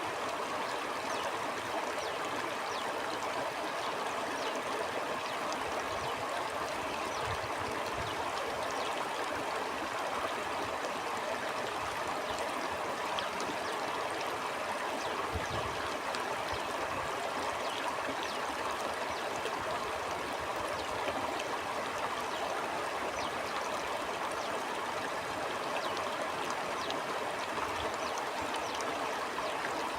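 Stream water flowing steadily over rocks, a continuous rushing with fine trickling and splashing ticks through it and a few brief low rumbles.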